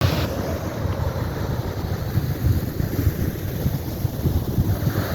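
Wind buffeting the microphone in an uneven low rumble, over a steady hiss of ocean surf.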